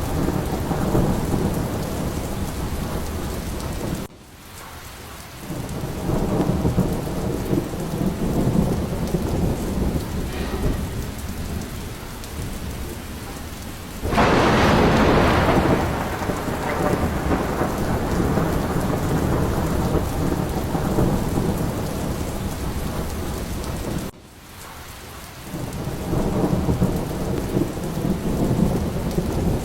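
Steady heavy rain with low, rolling thunder rumbling under it. About halfway through a sharp thunderclap breaks in loudly and fades over a couple of seconds. Twice the storm drops away suddenly and swells back within a second or two.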